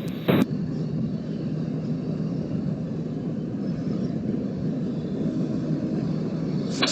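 Steady low engine rumble. A railroad radio transmission's squelch tail cuts off just after the start, and a brief radio click sounds near the end.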